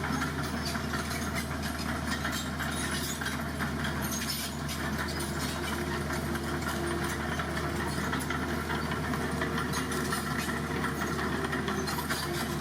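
Heavy diesel engine of construction machinery running steadily at a constant pitch, with a fine clatter over it.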